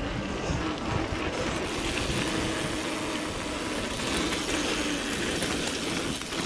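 Steady rush of wind and tyre noise from a mountain bike being ridden along a dirt trail.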